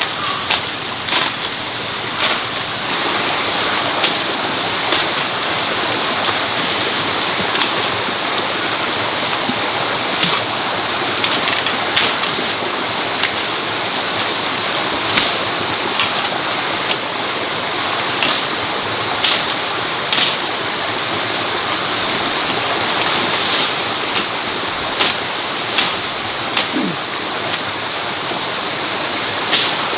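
Steady rushing noise like running water, with sharp clicks or knocks at irregular intervals, often about once a second.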